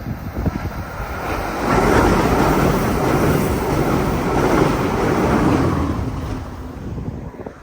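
A VIA Rail Siemens Charger passenger trainset passing at speed, the wheels rushing and rumbling on the rails. It swells to its loudest about a second and a half in and fades toward the end.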